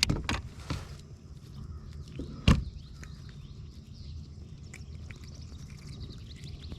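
Handling noises in a fishing kayak while a caught crappie is dealt with: a few quick light knocks in the first second, then one sharp, louder thump about two and a half seconds in, and a few faint clicks after.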